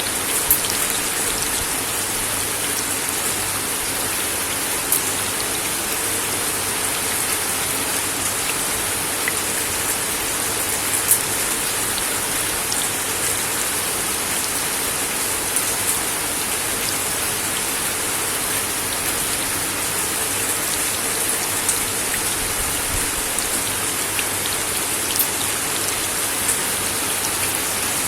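Steady rain falling on a wooden deck, an even hiss with occasional sharper drop taps scattered throughout.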